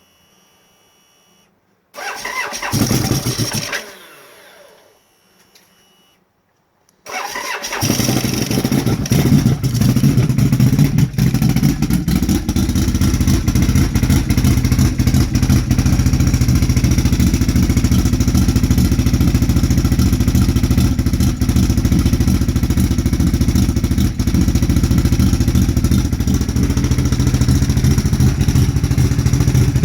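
Renegade 840 engine cold starting at about -30: a first attempt about two seconds in runs briefly and dies away, then about seven seconds in it catches, runs unevenly for a few seconds and settles into a steady idle.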